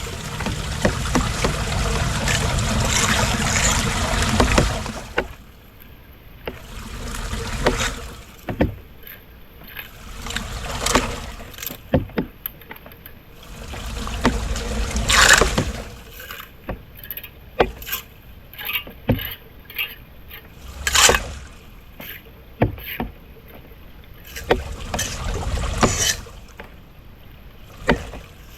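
Floodwater splashing and sloshing in swells, with many short knocks and scrapes scattered between them.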